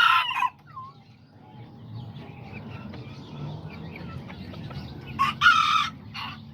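Kikiriki bantam roosters crowing: the end of one crow right at the start and another short crow about five seconds in, with hens clucking softly in between.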